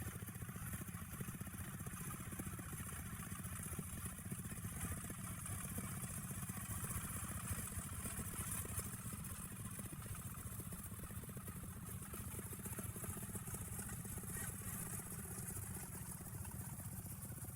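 Engine of a log-hauling truck running steadily as it drives, with a low rumble.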